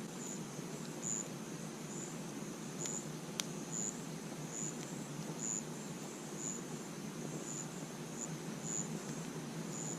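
A cricket chirping steadily, evenly spaced high chirps a little over one a second, over the low steady rush of a campfire, with a few sharp crackles from the fire around the third second.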